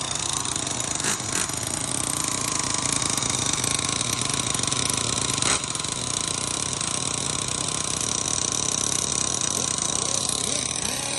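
Nitro RC car engine running steadily with a rapid, rattly buzz, with a sharp click about a second in and another near the middle.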